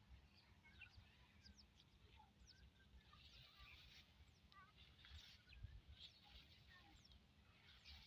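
Faint birdsong: many small birds chirping, with short high notes and quick falling whistles, over a low rumble.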